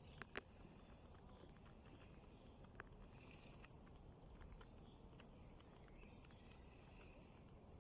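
Near silence: faint outdoor ambience with a few soft clicks and faint high chirps.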